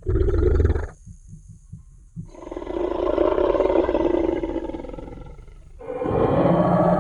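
Dinosaur (T. rex) roar sound effect. A short roar breaks off about a second in and gives way to a low pulsing rumble. A long roar then swells and fades, and another roar begins near the end.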